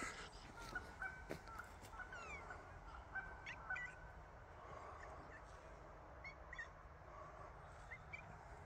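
Faint, scattered bird calls: short chirps and brief whistled notes over quiet forest ambience, with a few soft footsteps on the leaf-litter trail.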